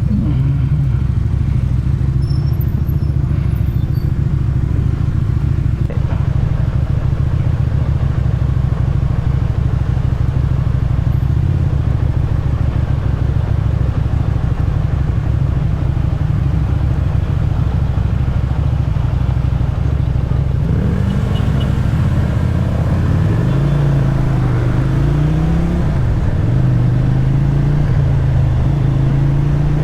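Motorcycle engine and exhaust running at a steady cruising speed. In the last third the revs drop and rise again a few times as the throttle is eased and reopened.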